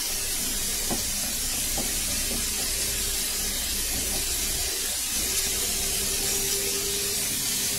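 Strips of red bell pepper frying in oil in a frying pan, giving a steady hiss, stirred with a wooden spatula that knocks lightly against the pan a couple of times early on. They are being fried only briefly, just until lightly cooked.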